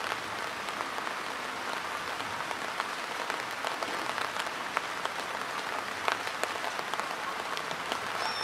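Steady rain falling on a wet dirt road: an even hiss of rain with many scattered sharper drop taps.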